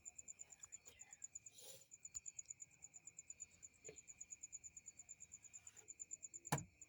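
Crickets calling faintly in a fast, even, high-pitched pulsing trill, about nine pulses a second, over a steady high buzz. A single sharp click sounds near the end.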